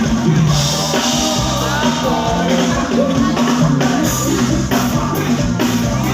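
Live band playing Thai ramwong dance music, with a steady drum-kit beat under melodic instruments.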